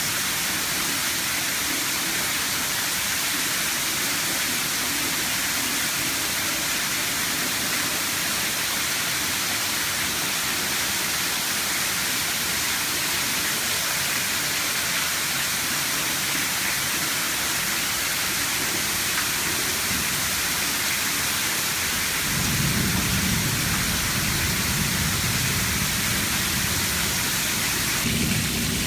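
Rain falling steadily, an even hiss. About three quarters of the way through, a low rumble comes in under it and carries on.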